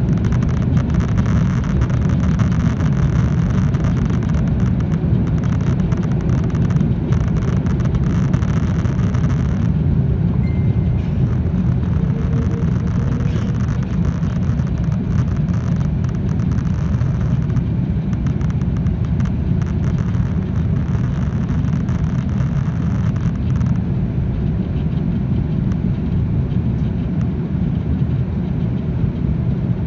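Steady low rumble of an Airbus A330 airliner heard from inside the cabin: engine and airflow noise, with no distinct events.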